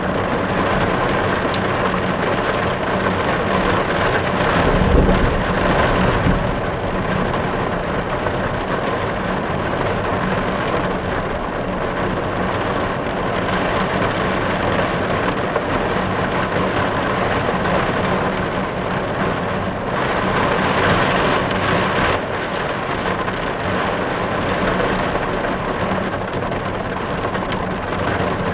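Steady rain drumming on a car's roof and windows, heard from inside the cabin. A low rumble swells about five seconds in, and the rain grows heavier for a couple of seconds past the twenty-second mark.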